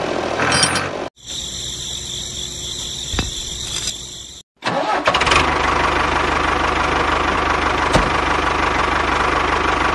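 Diesel tractor engine idling with an even, knocking beat. The sound cuts off abruptly twice, about one second in and about four and a half seconds in, with a thinner, steadier stretch between the two breaks.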